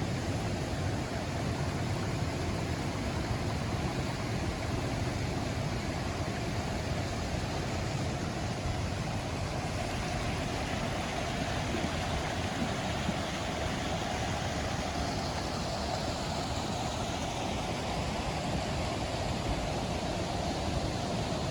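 Steady rush of flowing water, an unbroken noise with no rhythm or pauses.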